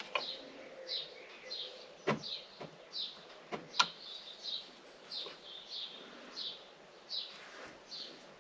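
A bird chirping a short falling note over and over, about twice a second, with a few sharp clicks or taps in between, the loudest a little under four seconds in.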